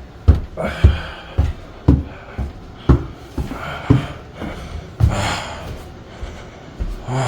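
Footsteps climbing stairs, heavy thuds about two a second, with a person's hard breathing between them.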